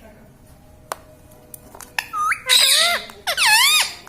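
Ring-necked parrot squawking: after a quiet start with one click, a short note and then two loud calls that swoop down and up in pitch in the second half.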